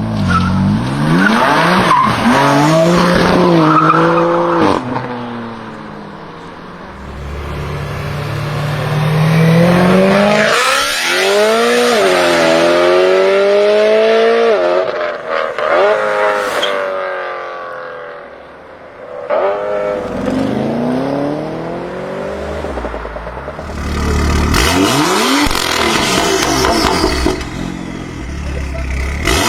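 High-performance BMW car engines revving hard and accelerating, the pitch sweeping up and dropping back again and again across several separate runs.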